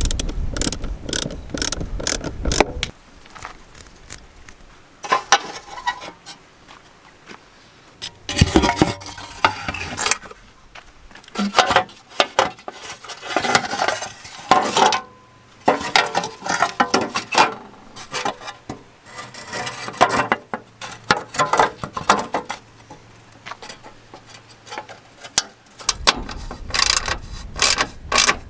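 Hands refitting the air-intake hose, clamp and heat shield in a T1N Sprinter's engine bay. Plastic and metal parts rub, knock and click in irregular bursts, and a socket ratchet clicks near the end.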